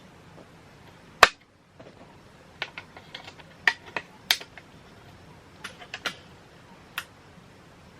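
A series of sharp, isolated clicks and taps of hard objects. The loudest comes about a second in, and smaller ones follow irregularly through the rest.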